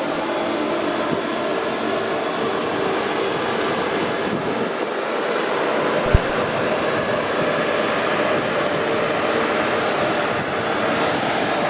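Steady noise of traffic on a dual carriageway: lorries and cars passing, with engine hum and tyre noise. A single sharp knock about six seconds in.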